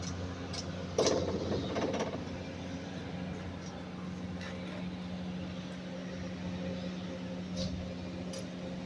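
Steady low machine hum, with a brief louder rattle about a second in.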